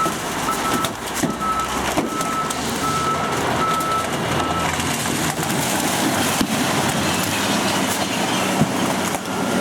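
A recycling truck's reversing alarm beeps at a steady pitch, about one beep every half second or so. It stops about halfway through. Steady truck engine noise and occasional knocks continue underneath.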